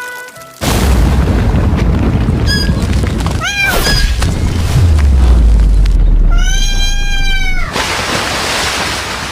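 A sudden loud boom less than a second in, followed by a steady low rumble. Over the rumble a cat meows: two short meows around the middle, then one long drawn-out meow.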